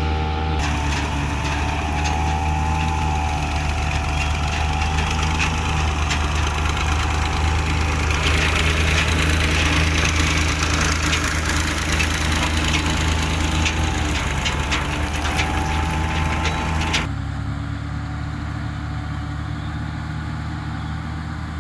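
New Holland combine harvester running steadily, its engine hum under a loud rushing noise that drops away abruptly about three-quarters of the way through, leaving the engine alone.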